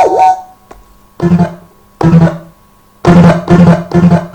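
Synthesizer patch on a Roland M-DC-1 sound module: a held tone dies away with a falling pitch at the start, then six short pitched stabs follow, the last four in quick succession about half a second apart.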